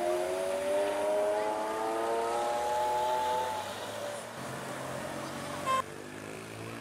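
Lamborghini Aventador's V12 engine accelerating away, its pitch rising steadily for about three and a half seconds, then fading. Near the end a short sharp sound, then the sound drops off abruptly.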